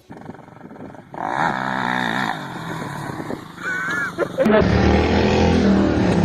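Engines of off-road motorcycles or quad bikes running and revving across several abrupt cuts. They are loudest and steadiest from about four and a half seconds in.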